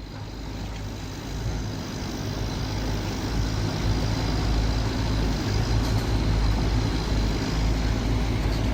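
LiuGong excavator's diesel engine running steadily under work with a deep, even hum, growing louder over the first few seconds.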